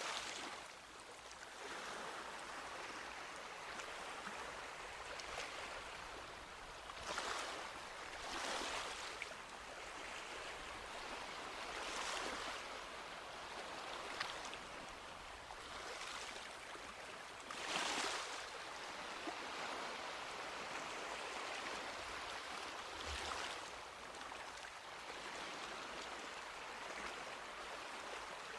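Small waves lapping and washing on a sandy beach: a steady hiss of water with soft swells every few seconds as each wave breaks and runs up the shore.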